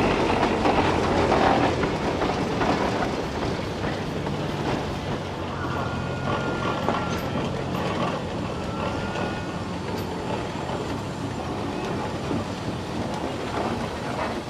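Steam traction engine running: a steady mechanical clatter, louder in the first two seconds. Two faint, short high squeals come near the middle.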